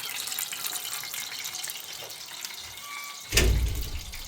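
Water running or splashing steadily, with a sudden loud low thump a little over three seconds in.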